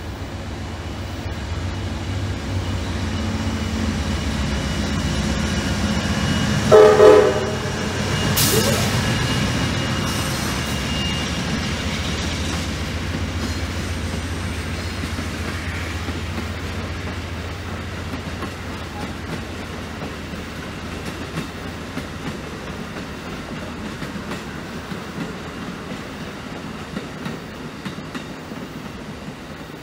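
Amtrak passenger train passing: a steady rumble of the cars on the rails that builds and then slowly fades, with one short blast of the locomotive horn about seven seconds in.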